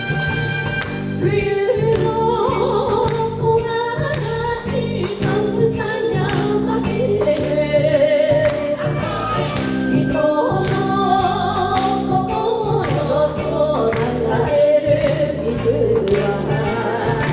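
Japanese ondo-style enka song: women's voices singing the melody in duet over a band backing with horns and taiko drums keeping a steady beat. The singing comes in about a second in after a short instrumental passage.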